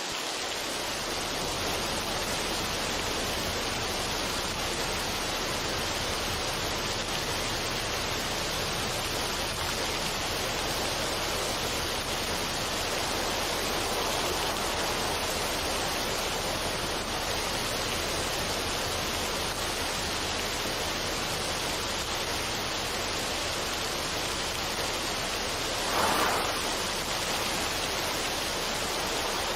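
Steady, even rushing noise like running or falling water, with no music or tones, and a short swell in loudness about 26 seconds in.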